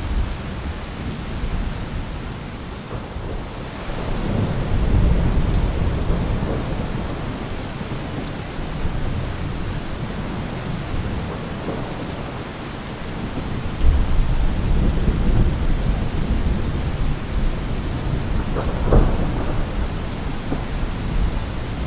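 Steady heavy rain with rolling thunder. A low rumble swells about four seconds in, another breaks in suddenly about fourteen seconds in, and a sharper thunderclap comes near the end.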